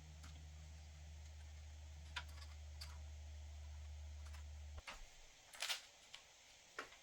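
Scattered light clicks and taps, the loudest a quick double click a little past halfway, over a steady low hum that cuts off suddenly about five seconds in.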